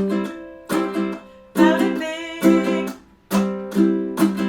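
Ukulele strumming a reggae-style accompaniment: chords struck about once a second, each ringing briefly before the next stroke.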